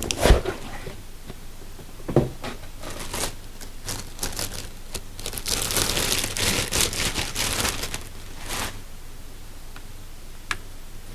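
Packaging being handled as a cordless jigsaw is unboxed: irregular crinkling and rustling with scattered clicks and knocks, busiest for a few seconds in the middle.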